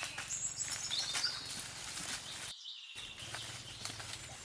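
Outdoor rural ambience with birds chirping in short high calls over a faint low steady hum and a few light knocks. The sound cuts out completely for about half a second around two and a half seconds in.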